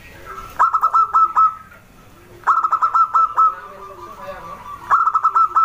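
Zebra dove (perkutut) singing: three phrases about two seconds apart, each a quick run of short staccato notes trailing off into a held coo.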